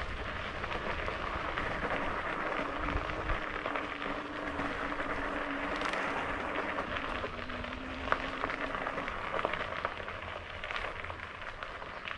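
Fat tyres of a RadRover electric bike rolling along a dirt trail, a steady crackling crunch with scattered small clicks. A faint steady whine runs through the middle of it for several seconds.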